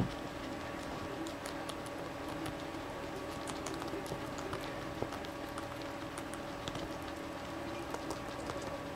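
Guinea pigs chewing cabbage: a run of small, crisp, irregular crunching clicks.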